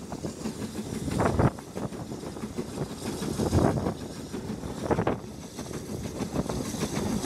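Steam-hauled train heard from an open carriage window while running at speed: a steady rumble of wheels on the rails and wind on the microphone, swelling louder a few times.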